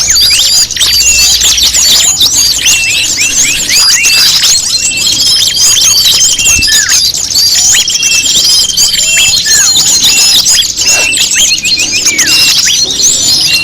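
A mixed-species lure recording of small songbirds: a dense, loud, overlapping chorus of high-pitched chirps and quick whistled calls. A steady trill runs for about a second, twice, near the middle.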